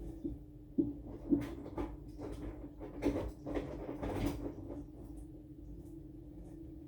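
Aqua AQW-DX12M front-loading drum washing machine running mid-cycle: a steady motor hum with a run of irregular knocks and swishes from laundry tumbling in the drum, from about one to four and a half seconds in.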